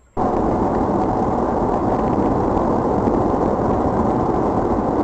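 Steady, loud noise of a moving vehicle, engine and road rumble together, cutting in abruptly just after the start and holding even.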